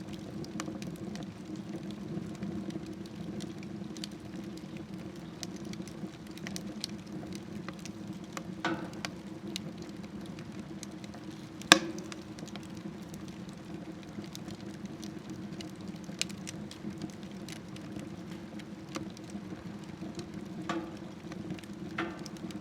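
Wood fire burning in a smokeless stove: scattered sharp crackles and pops, one louder pop about twelve seconds in, over a steady low rumble.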